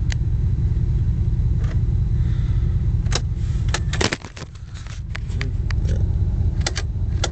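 1986 Cadillac Fleetwood Brougham's V8 engine idling, heard from inside the cabin as a steady low rumble that drops away for a moment about four seconds in and builds back up. A run of sharp clicks sounds over the second half.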